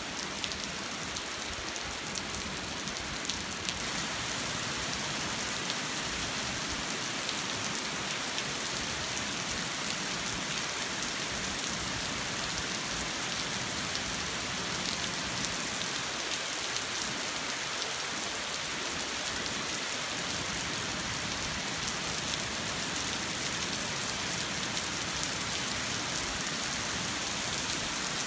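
Steady rain pattering on a paved street, a dense even hiss full of small drop ticks.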